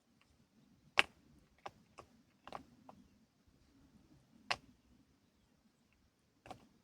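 A handful of sharp, separate knocks and clicks at irregular intervals, the loudest about a second in and another a little past the middle.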